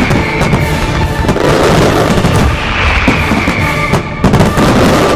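Fireworks barrage: a dense, continuous rumble of bangs with two falling whistles from whistling shells, and a quick run of sharp cracks near the end.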